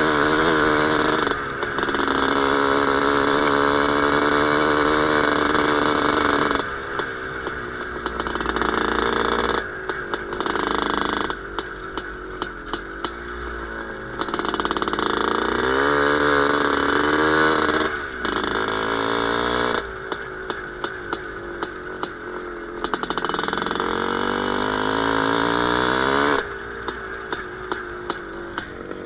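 Single-cylinder two-stroke IZh Planeta Sport motorcycle engine running, revved up several times and dropping back to a lower, rattling idle between the revs.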